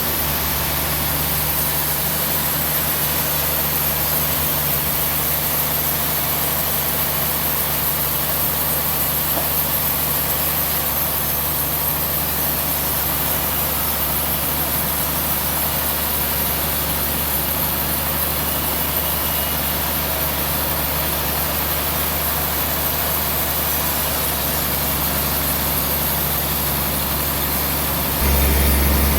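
Sawmill machinery running steadily with an even, unchanging hum, without the sound of a blade cutting; it gets a little louder about a second before the end.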